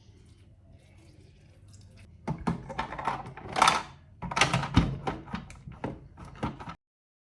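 A string of knocks and clatter, with a short rustling swell in the middle, from things being handled in a kitchen; it cuts off abruptly near the end.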